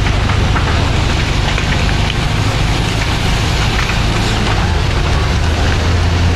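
A vehicle engine running steadily with a low drone, over a dense crackling and hissing from a building fire.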